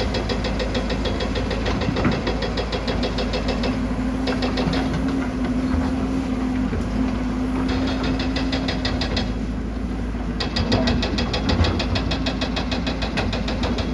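Hydraulic excavator's diesel engine running steadily, with a rapid, even high-pitched ticking over it that stops and restarts several times.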